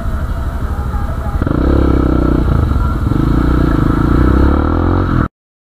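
Motorcycle engine running, getting louder about a second and a half in, then cutting off abruptly near the end.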